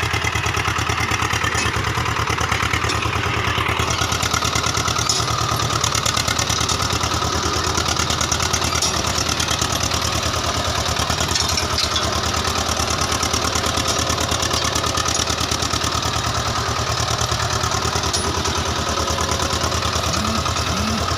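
Swaraj tractor's diesel engine running steadily with an even firing beat.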